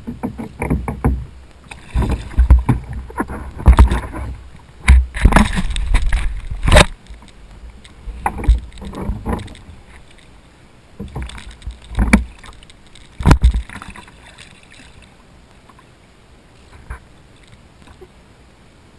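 Irregular knocks, bumps and water splashes on and around a fishing kayak. They come thick for the first dozen seconds or so, then die down.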